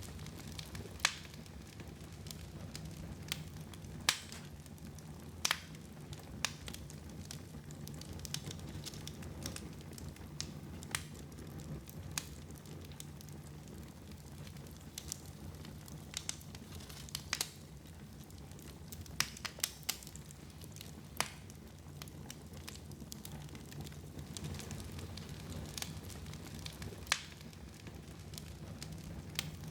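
Wood fire crackling in a fireplace: irregular sharp pops, one every second or two, over a steady low rumble of burning.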